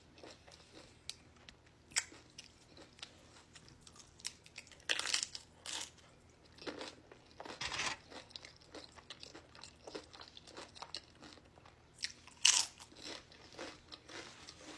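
Close-miked chewing and crunching of Doritos tortilla chips, with several louder crunchy bites about five, eight and twelve and a half seconds in.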